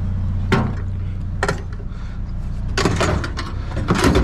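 A vehicle engine idling with a steady low hum, while several sharp knocks and clatters of objects being handled sound over it, the densest near the end.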